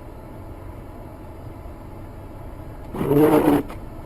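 Steady car engine and road hum, then one short car horn blast about three seconds in.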